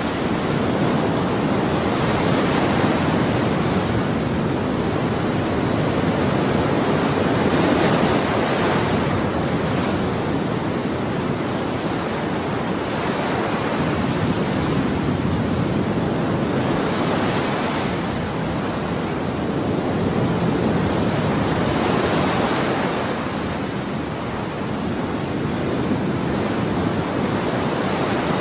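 Ocean waves breaking and washing on a shore in a steady, continuous surf, with swells rising and falling every few seconds.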